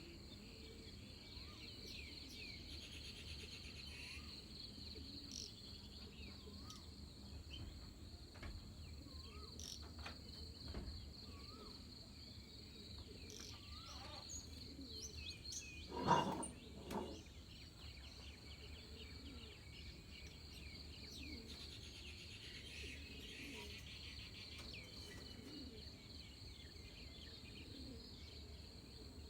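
Pre-dawn rural ambience: a steady high-pitched drone of insects with scattered bird chirps and a couple of spells of fast trilling. About halfway through, one louder, brief animal call, followed by a fainter second one.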